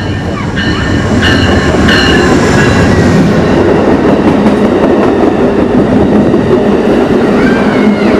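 A train rolling past close by: loud, steady rail and wheel noise that swells over the first couple of seconds. Thin high-pitched tones sound during the first three seconds, and a brief curving whine comes near the end.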